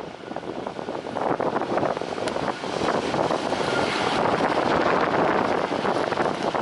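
Wind buffeting the microphone: a rushing, fluttering noise that dips and then builds back up over the first few seconds.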